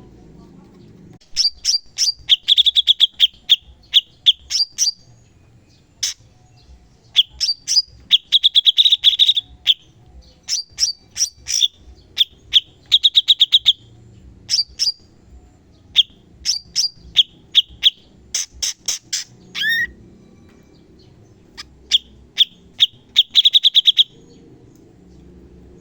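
Cucak cungkok singing: repeated phrases of rapid, sharp, high-pitched notes running into fast trills, each phrase lasting a second or two with short pauses between. This is the stream of piercing rapid-fire song ('tembakan') used as master song to train other songbirds.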